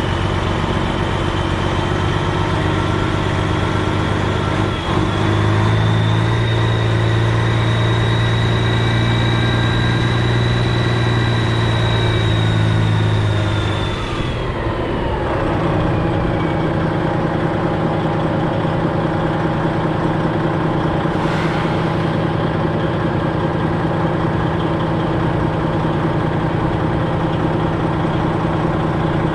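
Semi truck's diesel engine running steadily, with a high whine over it. About halfway through the whine slides down in pitch as the revs drop, and the engine settles to a steady idle.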